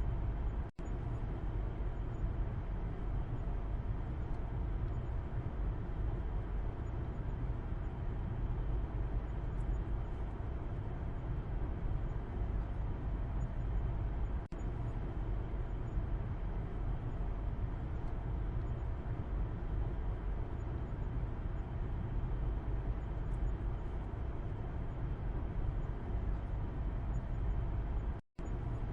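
Steady low road and engine rumble inside a moving car's cabin, heard from the back seat. The sound cuts out for an instant about a second in and again near the end.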